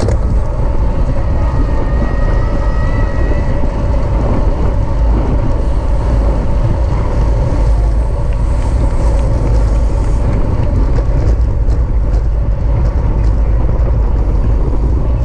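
Wind buffeting the microphone of a camera carried on a racing bicycle at speed: a loud, steady rumble with a constant hum underneath.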